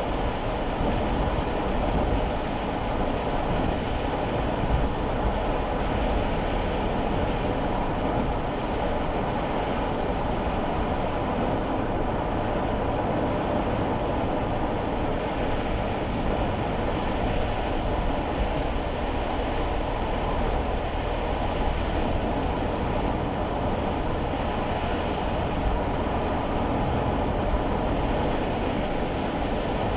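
Steady road and tyre noise heard from inside a small kei car's cabin while driving on wet roads in the rain, an even low rumble with no sharp events.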